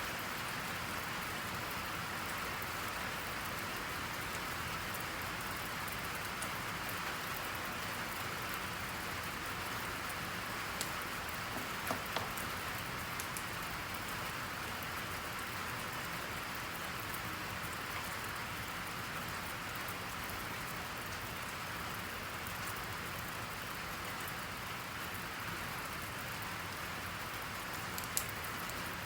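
Steady rain, an even continuous hiss, with a few faint short ticks about halfway through and again near the end.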